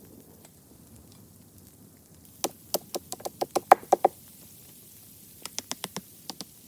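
A quick run of about ten sharp knocks, about five a second, then a lighter run of about seven knocks.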